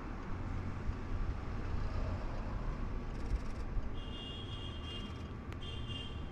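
Vehicle engine running with a steady low rumble. Two high steady tones, each about a second long, sound in the second half.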